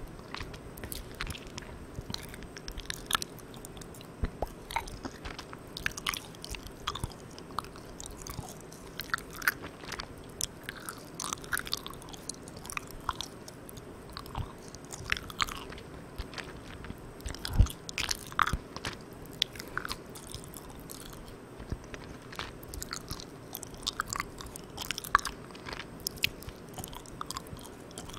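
Close-miked chewing of Malang Cow soft, sticky chewy candy: irregular wet smacks and clicks of the mouth, with one louder pop a little past halfway. A steady hiss runs underneath from the recorder's gain being turned all the way up.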